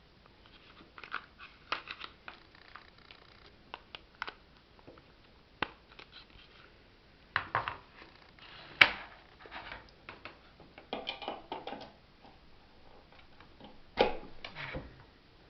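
Parts of a plastic electric kettle being handled: scattered clicks, light knocks and rubbing, with one sharp knock about nine seconds in.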